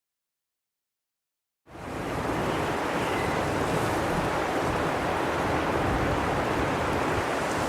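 Total silence for under two seconds, then a recorded wind effect fades in quickly and blows steadily as an even rushing noise.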